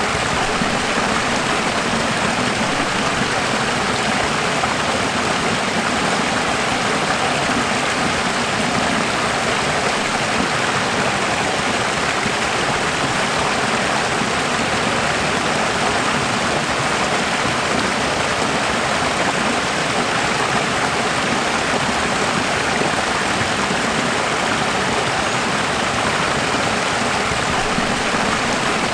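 Running water, a steady unbroken rush like a stream, with no change in level or rhythm.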